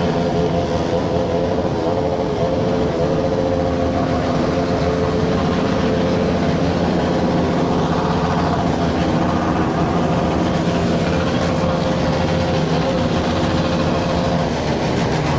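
Many motorcycle engines running together in a loud, steady din, their overlapping exhaust notes wavering a little in pitch.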